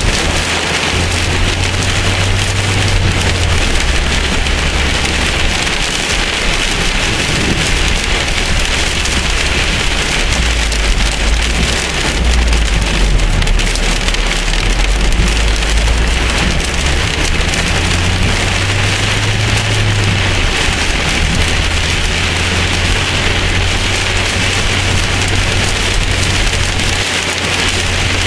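Heavy rain pelting a car's roof and windshield, heard from inside the cabin as a loud, steady hiss and patter. A low rumble runs underneath and swells for several seconds around the middle and again later on.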